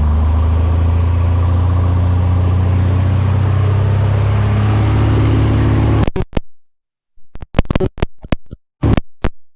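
Bird Dog light aircraft's piston engine running with a steady, loud, low drone. The sound cuts off abruptly about six seconds in, followed by a few scattered clicks and knocks.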